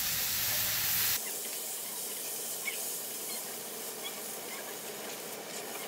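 Boiled green beans sizzling in oil in a nonstick pan: a steady hiss that drops abruptly to a softer level about a second in. Light scrapes and clicks come from a plastic spatula stirring them.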